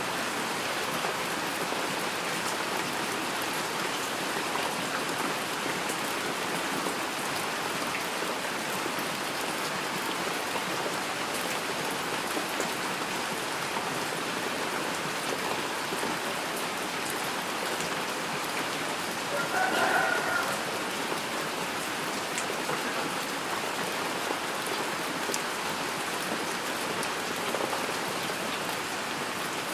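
Steady rainfall pattering on surfaces, a dense, even hiss. About two-thirds of the way through, a brief pitched sound rises briefly above the rain.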